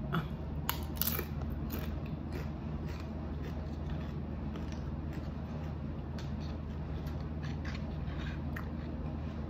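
Close-up chewing and crunching of crisp fried taco tortilla, with irregular sharp crackles over a steady low hum.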